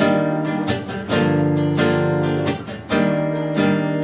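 Acoustic guitar strummed in an instrumental passage between sung lines: a chord struck about once a second, each ringing until the next.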